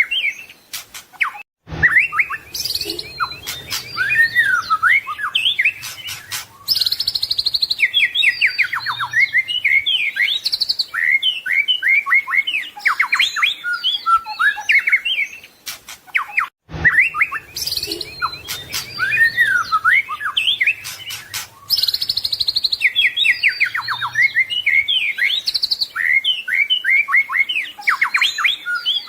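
White-rumped shama (murai batu) singing a fast, varied song of whistles, trills and chattering phrases, packed with mimicked notes. The same stretch of song repeats about every fifteen seconds, each time after a brief break.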